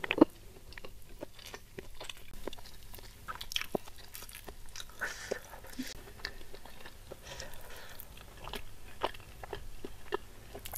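Close-miked chewing of a mouthful of fish and rice: a scatter of small, irregular wet clicks and soft crunches, with fingers picking at the tilapia.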